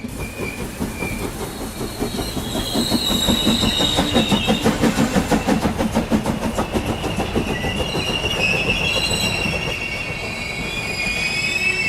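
Train running fast, with a rapid rhythmic clatter and high squealing from the wheels. The squeal grows stronger in the second half.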